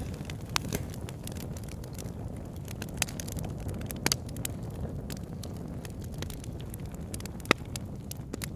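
Wood fire burning in a fireplace: a steady low rumble of flames with scattered crackles and sharp pops, the loudest pop about seven and a half seconds in.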